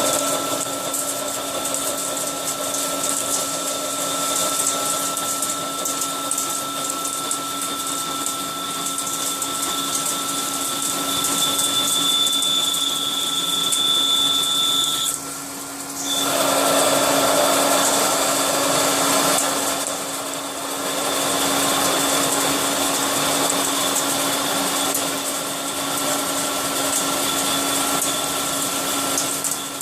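CNC milling machine running, with a steady whine made of several pitches. About halfway through, the highest pitch stops and a louder, rougher noise comes in for a few seconds before the steady running sound settles again.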